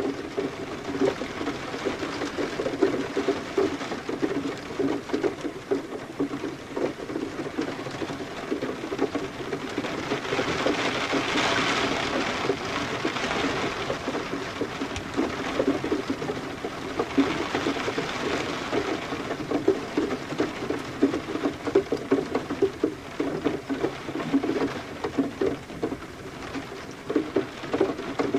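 Rain falling, a dense irregular patter of drops with a steady hiss that swells louder twice near the middle.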